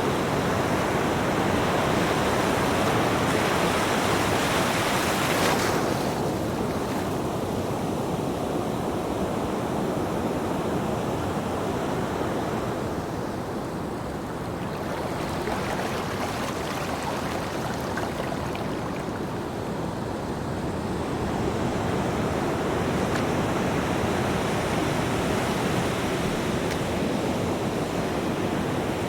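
Ocean surf: waves breaking and washing in a continuous rush. It is loudest over the first few seconds and eases about six seconds in, then swells again near the end.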